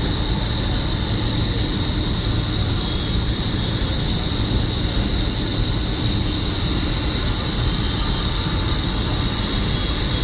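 Boeing 747-400's jet engines running at low power during taxi, a steady rumble with a constant high-pitched whine.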